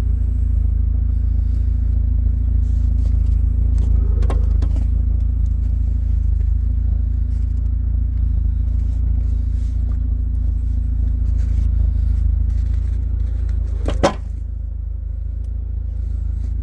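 A motor vehicle's engine and road noise making a steady low rumble. There is a faint click about four seconds in and a sharp knock near the end, after which the rumble is a little quieter.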